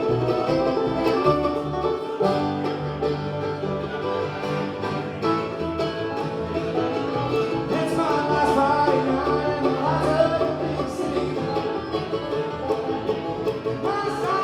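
Live bluegrass band playing an instrumental passage, with banjo and guitar picking over a steady bass line, and a sliding lead melody line coming in about halfway through.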